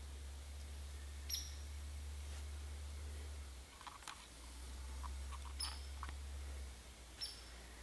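Three short, high-pitched bird chirps, spaced a few seconds apart, over a steady low rumble.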